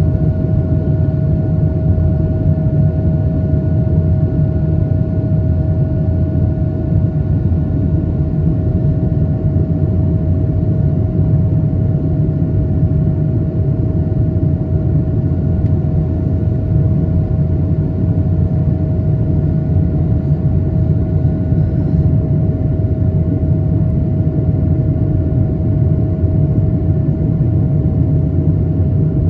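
An Airbus A220-300 with Pratt & Whitney PW1500G geared turbofans: a steady, unchanging low rumble of engine and airflow noise, with a steady hum above it.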